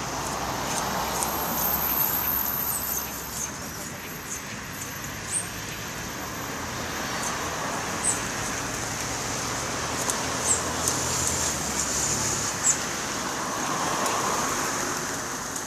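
House wren giving short, sharp, high-pitched calls at irregular intervals, over steady road traffic noise with cars passing near the start and near the end.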